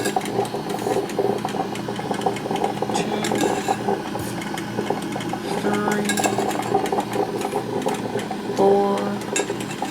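Black & Decker thermal carafe drip coffee maker brewing: a continuous busy gurgling and sputtering with many small clicks, as the hot water is pushed up through the machine.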